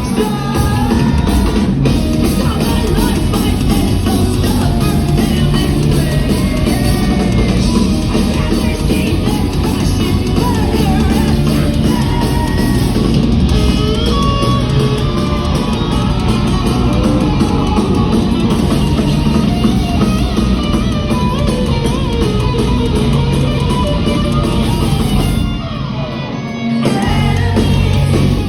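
A rock band playing live at full volume, with electric guitars, drums and sung and shouted vocals. Near the end the band briefly drops back, then comes in full again.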